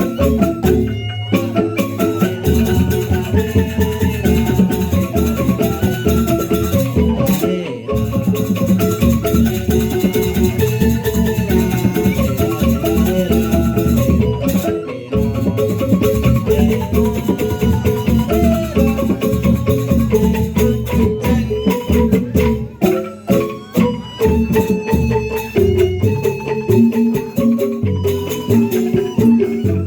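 Traditional Indonesian percussion ensemble music: tuned mallet-struck instruments playing fast interlocking melodies over a dense beat with rattles, briefly dropping out about 8 and 15 seconds in.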